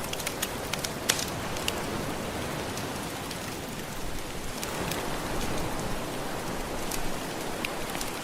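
Steady wash of gentle ocean waves with a wood fire crackling over it in scattered sharp pops, one louder pop about a second in; the wash swells a little in the middle.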